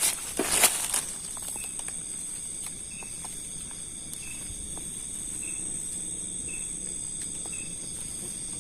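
Night insects calling: a steady high-pitched cricket trill, with a short chirp repeating about once a second. A brief rustle in the first second.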